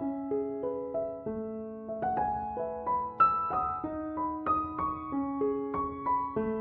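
Background piano music: a melody of single struck notes, a new note about every half second, each ringing on under the next.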